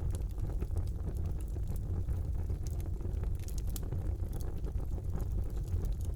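Wood fire burning in a fireplace: a steady low rumble of the flames with irregular sharp crackles and pops, a few louder ones about halfway through.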